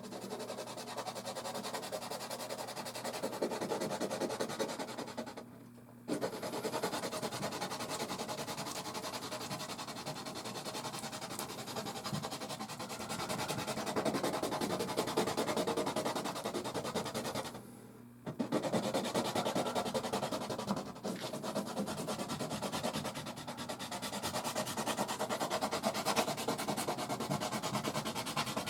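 Soft pastel stick rubbed and scraped back and forth across canvas in long continuous strokes, stopping briefly twice, about six and eighteen seconds in.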